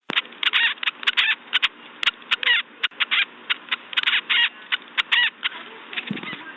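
Birds at a feeder chirping and calling in quick succession, many short calls one after another, heard through a security camera's thin-sounding microphone.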